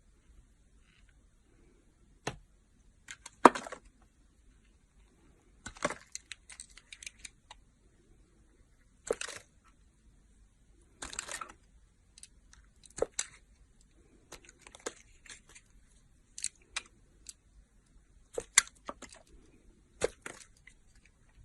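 Knife cutting through a dry bar of soap: short, crisp crunching and scraping cuts, about a dozen spaced one to two seconds apart with quiet between them.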